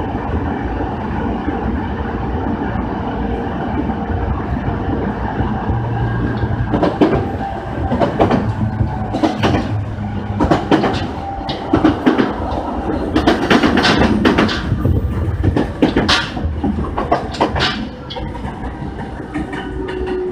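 A Sobu Line commuter train heard from inside the car: a steady running rumble, then from about seven seconds in a run of sharp clacks and knocks as the wheels cross the points and rail joints of the station approach. A falling motor whine starts near the end as the train slows for the station.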